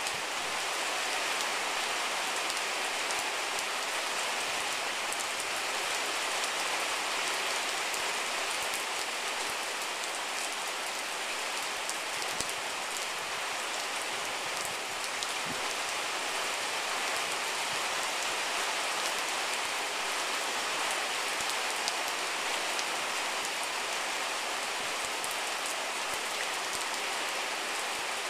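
Steady rain falling on standing floodwater and wet grass, with a few faint drop ticks.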